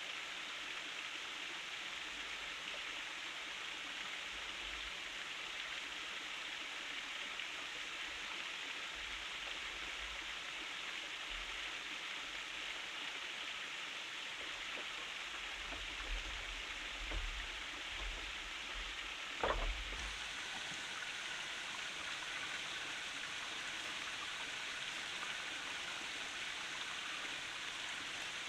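Steady hiss of falling or running water. A few soft low thumps come past the middle, and a sharper knock about twenty seconds in.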